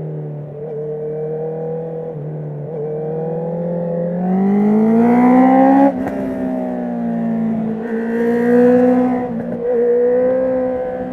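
2019 Honda CB650R's inline-four through a full Akrapovic titanium exhaust with the dB killer out. It rises in revs under acceleration, with a sudden drop in pitch about six seconds in as it shifts up a gear. The revs climb again, ease off briefly near the end, then hold steady.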